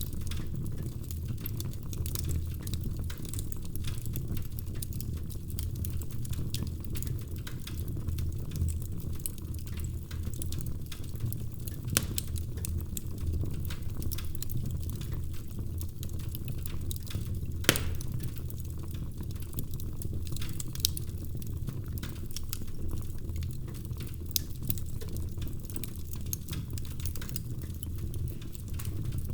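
Wood fire crackling in a fireplace: a steady low rumble of flame with constant small snaps and crackles, and a few louder pops, the sharpest a little past halfway.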